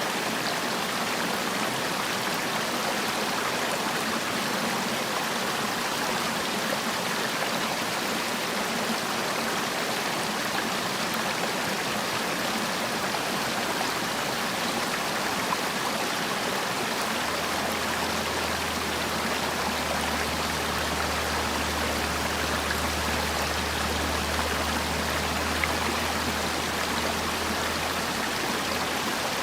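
Mountain valley stream flowing steadily, a continuous rush of water. A low hum joins partway through and fades out near the end.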